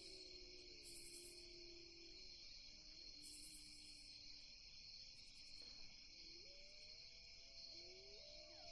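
Faint night ambience: a steady chorus of crickets and other insects, with short higher cricket trills every couple of seconds and soft low tones that slowly glide up and down.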